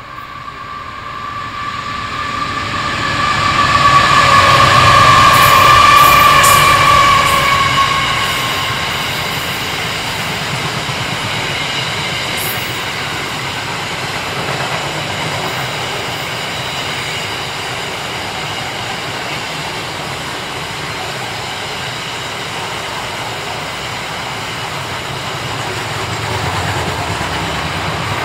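Three QUBE QL-class diesel locomotives heading a steel-coil freight train pass close by, loudest about four to eight seconds in, with a whine over the engine noise. The loaded coil wagons and flat wagons then roll past with a steady rumble and wheel noise.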